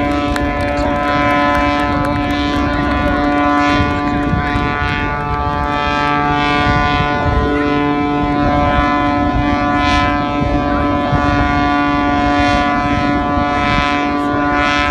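Propeller aircraft engine running at a steady speed: a steady drone made of many even tones, its pitch dipping briefly about halfway through.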